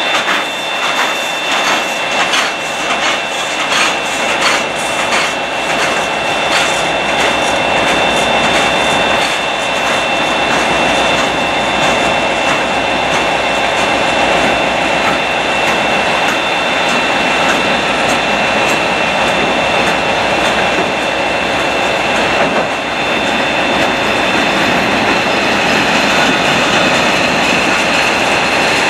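Freight wagons rolling past on the rails: a rapid clickety-clack of wheels over the rail joints in the first several seconds, settling into a steady rumble and rush, with a high steady tone running over it.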